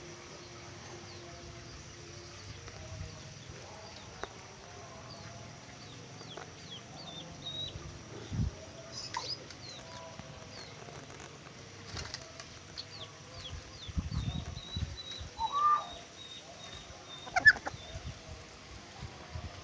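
Birds calling: many quick high chirps, with clucking calls and a few soft low thumps.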